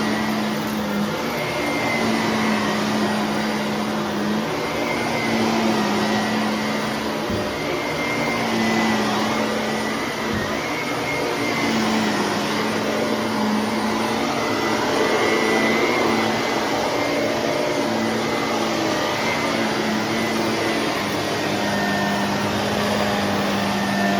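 Shark vacuum cleaner running steadily while vacuuming: a whooshing suction noise over a low motor hum whose pitch shifts slightly up and down every second or two, with a faint high whine.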